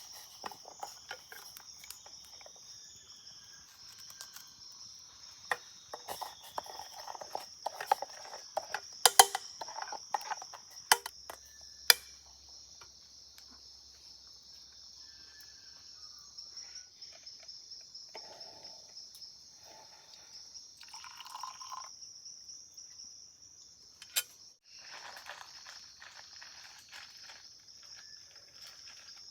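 Steady high-pitched insect chorus of the Amazon forest, with scattered sharp clicks and knocks, the loudest a third of the way in.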